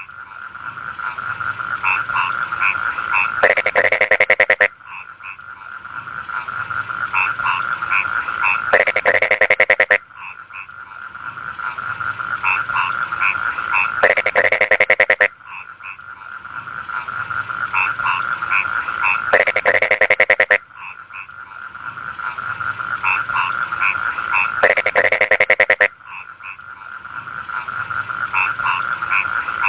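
Chorus of rice-field frogs croaking. About every five seconds the calling builds to a loud burst of rapid croaks, then drops off suddenly.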